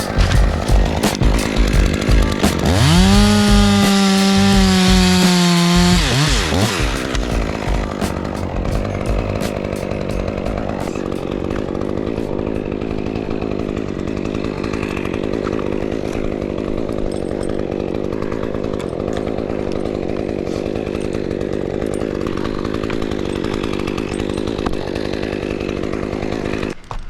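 Chainsaw revving up to high speed about three seconds in and held at full throttle for a few seconds. It then drops back to a quieter, steady run that cuts off near the end.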